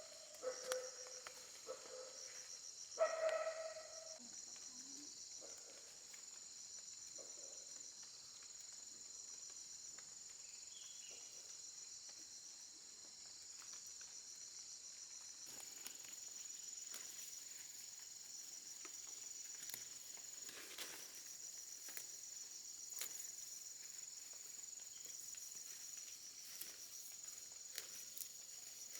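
Insects, crickets among them, chirping steadily in high pulsing trills. A few short pitched calls sound in the first four seconds, and scattered rustles or steps come through in the second half.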